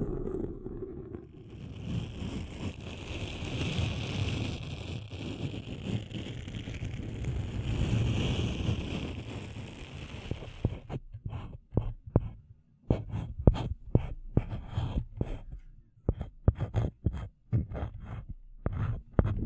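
Close-miked ASMR trigger sounds: for about ten seconds a steady low rumbling noise with a hiss above it, then a run of irregular sharp taps and clicks.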